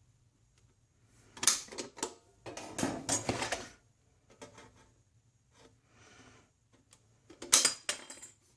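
Sheet metal being cut at the corners with hand snips: bursts of crisp metallic snipping and clinking about a second and a half in, again around three seconds, and once more near the end.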